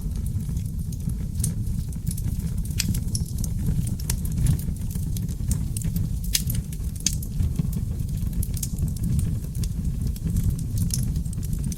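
Wood fire of seasoned oak logs burning in a fireplace: a steady low rumble of flame with frequent irregular crackles and sharp pops.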